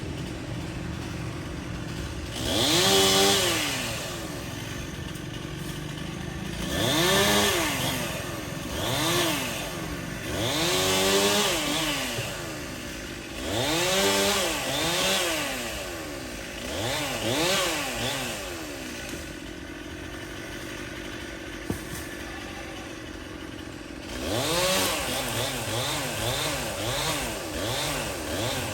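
Stihl chainsaw idling with about ten short blips of the throttle, the engine speed rising and falling each time, some in quick pairs and a run of them near the end. A single sharp click comes a little past two-thirds of the way in.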